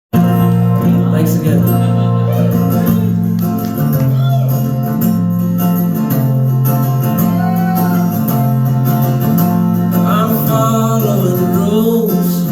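Acoustic guitar playing a slow song intro, its low bass note alternating between two pitches about every second and a half.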